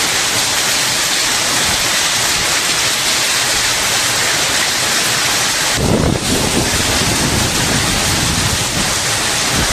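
Heavy rain pouring steadily in a gusty storm, a continuous dense hiss. About six seconds in the hiss briefly thins and a low rumble rises for a second or two before the rain sound settles back.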